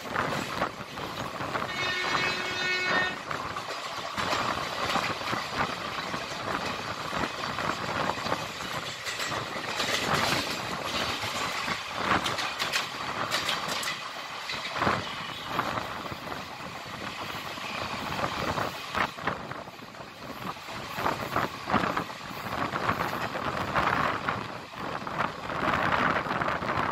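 Passenger train running along the track, heard from on board: a steady rumble with irregular clatter of the wheels over rail joints. A short horn note sounds about two seconds in.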